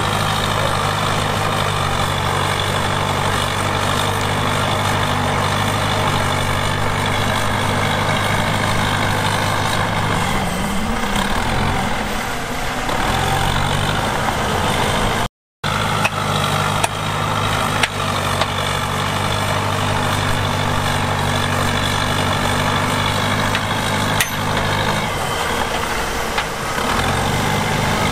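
Heavy diesel earthmoving machine engine running steadily, its note dipping and recovering twice, with a few light knocks.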